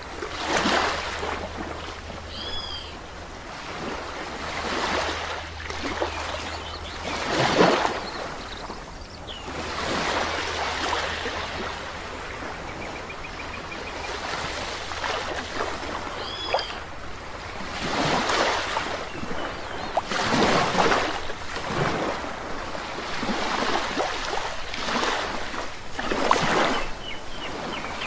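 Sea waves breaking and washing up a shore in surges every few seconds. A bird gives a short two-note call twice, about 3 seconds in and again about 16 seconds in.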